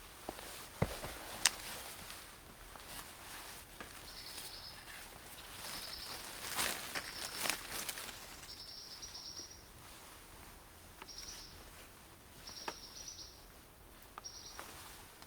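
An insect calling in short high buzzes, repeated every second or two, over rustling, with a couple of sharp clicks about a second in.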